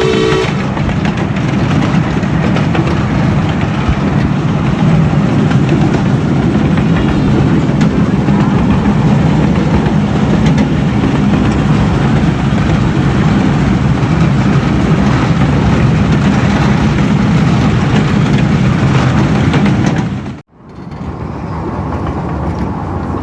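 Steady rumble and rushing noise of riding aboard a 12-inch gauge miniature live steam train. It cuts off abruptly about twenty seconds in and comes back quieter.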